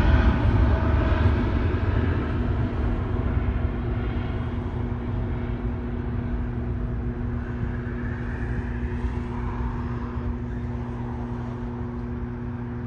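Boeing 777-300ER's GE90-115B turbofan engines at takeoff power: a deep rumble with a steady drone, fading steadily as the jet climbs away.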